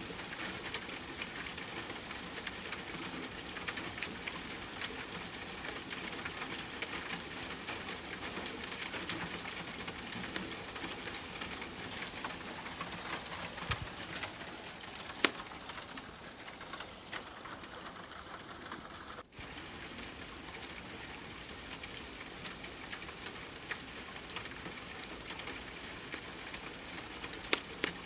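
Steady hiss of rain mixed with the light crackle of a wood fire: many small sharp ticks, with one louder pop about halfway through. The sound cuts out for an instant about two-thirds of the way through.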